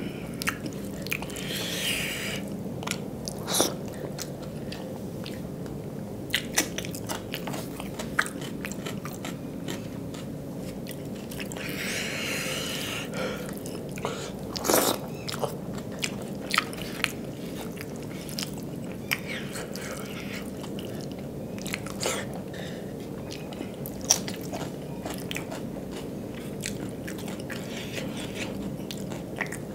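Close-up chewing and mouth sounds of someone eating rice mixed with dal by hand, with scattered sharp clicks and smacks and short soft squishing patches as fingers work the rice on a steel plate. A faint steady hum runs underneath.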